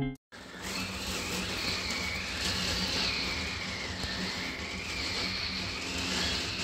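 Gale-force wind whistling through a window: a thin high whistle that slowly rises and falls in pitch over a steady rushing of wind.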